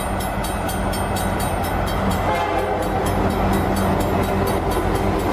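A train running by with a steady rumble and rapid, evenly spaced clacking. About two seconds in, its horn starts to sound as a held blast of several steady tones.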